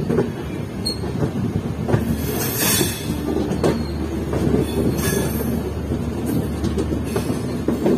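Express train coaches running along the track with a steady low rumble. The wheels clank irregularly over rail joints, with a couple of brief high-pitched hisses of wheel squeal.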